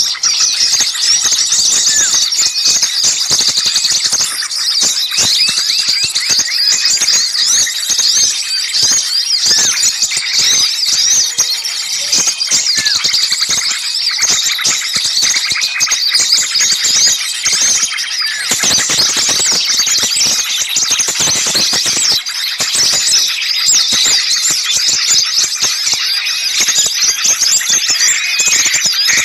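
Dense, noisy chorus of many small birds calling at once, a constant tangle of rapid, high-pitched chirps and short twittering notes. It is a lure recording of agitated small birds in a commotion, used to draw other small birds in.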